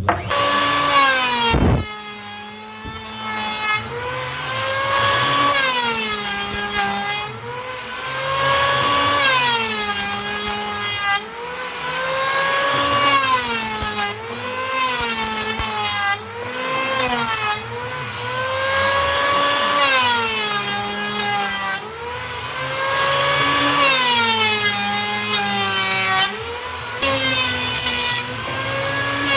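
An electric woodworking power tool's motor cutting wood, its pitch sagging under load and climbing back about every two seconds, pass after pass.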